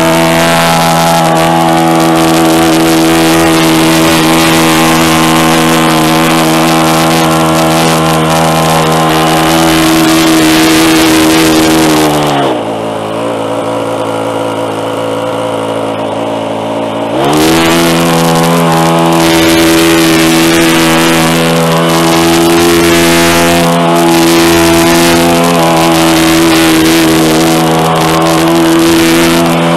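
Model airplane engine on the Seagull Skyraider running steadily at high throttle, throttled back to a low idle for about five seconds near the middle, then run back up. The owner says it is running very rich.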